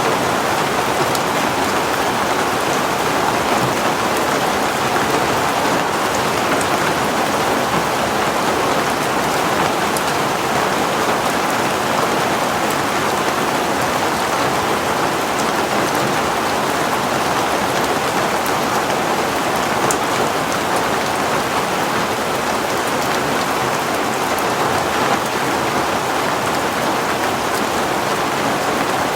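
Heavy rain falling steadily, an even hiss of rain on a surface with a few faint drop ticks.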